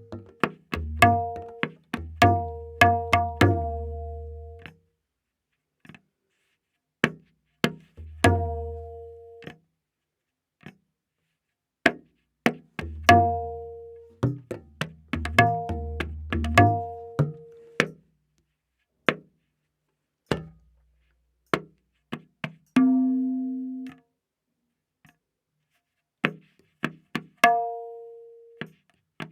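Tabla playing a slow vilambit ektaal theka, the dayan tuned to A#. Ringing treble strokes alternate with deep bass strokes from the bayan in spaced phrases, with long gaps between the slow beats.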